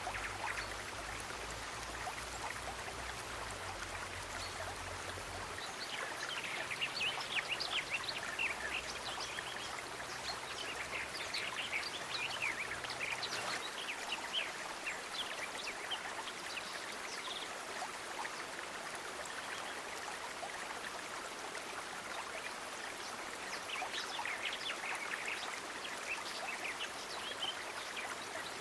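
Water flowing steadily in a stream, with clusters of short high clicks every several seconds.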